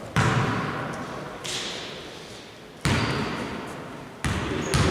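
A basketball bouncing hard on a gym floor: four heavy thumps at uneven intervals, each ringing out in the hall's echo.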